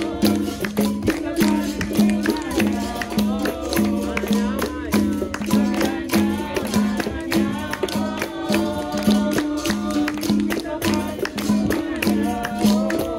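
Capoeira roda music. Berimbaus play a repeating two-note rhythm, with the shaken caxixi rattle and the pandeiro tambourine beating along, and voices sing over them.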